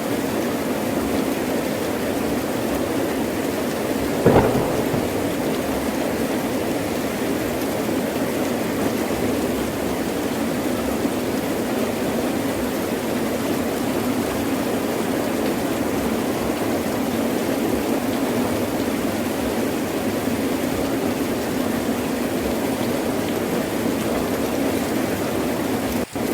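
Heavy rain pouring steadily, with one sharp, short crack of thunder about four seconds in. The level dips briefly near the end.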